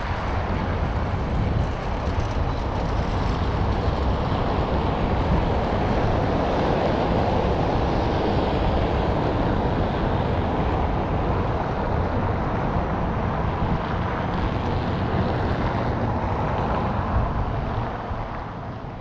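Outdoor ambience of wind buffeting the microphone, a steady rushing noise with a flickering low rumble, fading out near the end.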